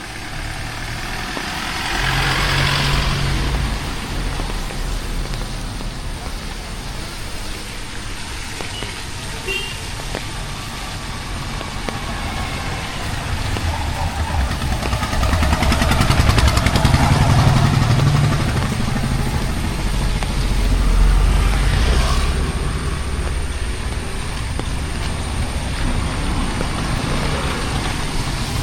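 Road traffic: motor vehicles drive past one after another, their engine rumble swelling and fading over a steady background of road noise.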